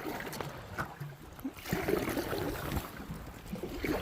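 Paddles stroking through river water beside a fiberglass canoe, with water gurgling along the hull and a few light knocks.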